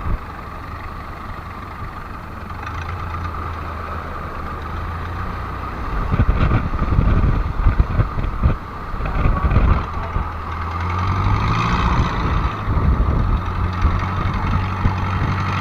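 An engine running steadily, with a rougher, louder stretch of uneven noise from about six to ten seconds in.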